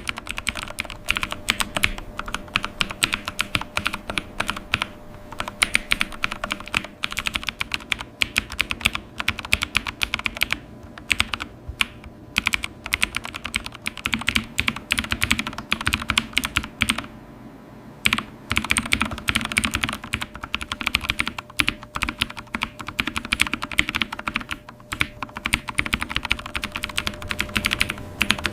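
Computer keyboard being typed on, fast runs of key clicks broken by short pauses, the longest about halfway through.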